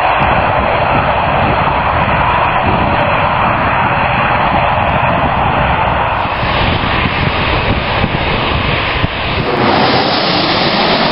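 Jet airliner's engines at takeoff power, a loud steady rush of jet noise.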